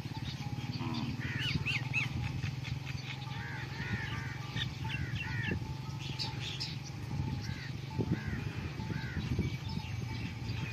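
Birds chirping, with many short arched calls repeating in quick pairs and runs, over a steady low hum.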